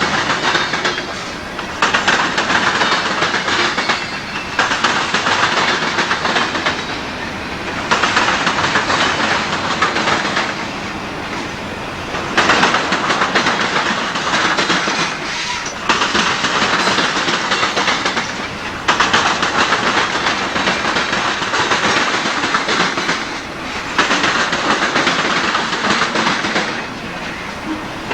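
Freight train cars rolling past, their wheels clattering over the rail joints. The noise swells and dips every few seconds.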